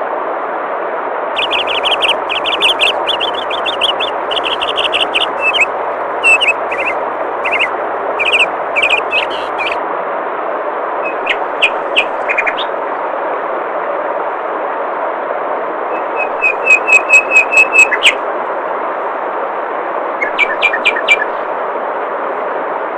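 Steady rush of flowing water with songbirds chirping over it. The birds call in bouts: a long run of quick chirps lasting several seconds, a few scattered notes, then a fast even trill of about a dozen notes and a short chirping series near the end.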